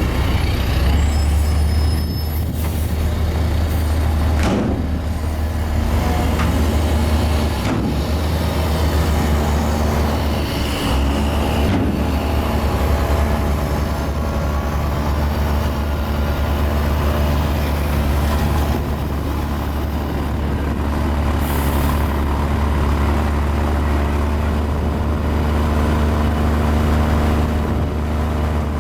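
Diesel engine of a mini Komatsu bulldozer running steadily under load with a deep, continuous drone while pushing fill, with a few brief clicks and faint whines over it.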